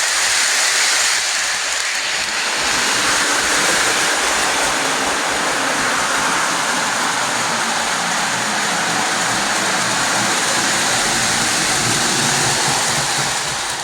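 Lionel model train running on the layout's track: a steady, loud rush of wheel and motor noise with a faint low hum, which cuts off sharply near the end.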